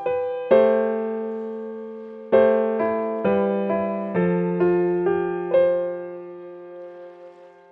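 Slow solo piano music. A chord is struck about half a second in and another about two seconds later. Single notes and chords then follow about every half second, and the last one is left to fade out near the end.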